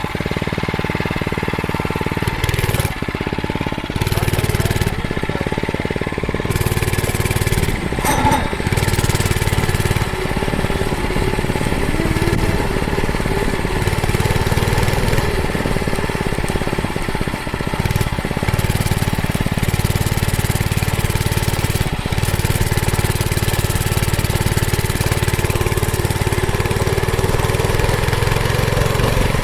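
Motovox pit bike's small pull-start engine running as it is ridden, the revs rising and falling again and again with the throttle.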